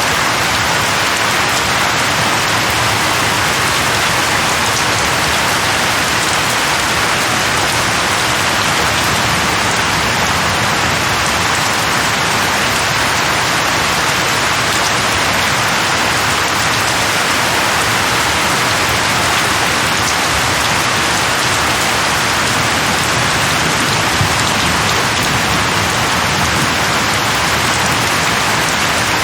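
Steady heavy rain falling on leaves, a dense even hiss.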